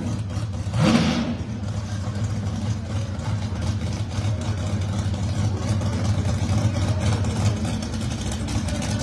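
Drag race car engines running at a lumpy idle, with one sharp rev blip about a second in.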